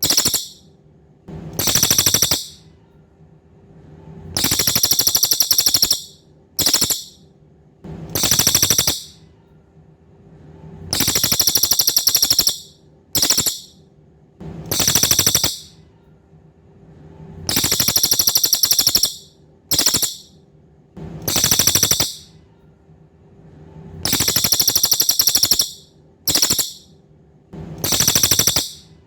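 Cililin songbird giving high, buzzy rapid-fire trills in bursts of half a second to a second and a half, some long and some short, repeating in a regular pattern every few seconds. A faint steady hum runs underneath.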